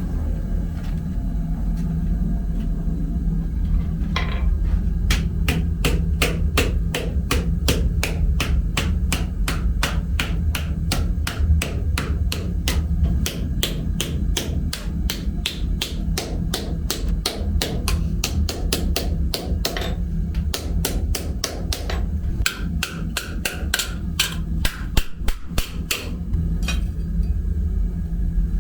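Hammer striking metal in a fast, even rhythm of about three blows a second, with a brief pause partway through, over a steady low rumble.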